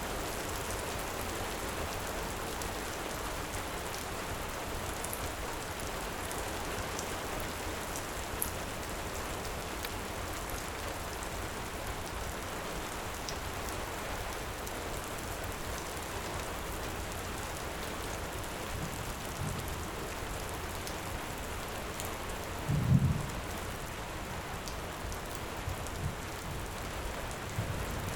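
Steady heavy rain, with faint sharp crackles from a wood fire scattered through it. Short low thunder rumbles come in the second half, the loudest about four-fifths of the way in.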